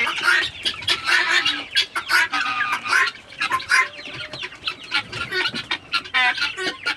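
A mixed flock of chickens and guinea fowl calling and clucking, with many short overlapping calls. Near the end there is a rapid rattling series of calls.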